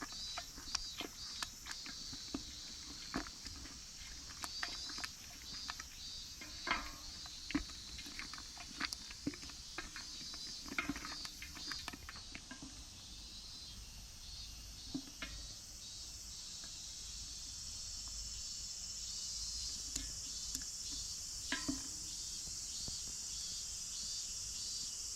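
Irregular pops and crackles from a pot of thick tomato puree cooking down over a scrap-wood fire, over a steady high-pitched chirring of insects.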